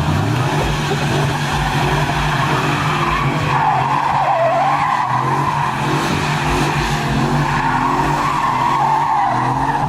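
A car's engine running at high revs with its tires squealing, the squeal starting a few seconds in and wavering in pitch: wheelspin.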